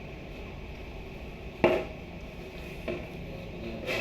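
A sharp knock a little before halfway through, then two fainter knocks, like something hard being set down or struck during work, over a steady low background noise.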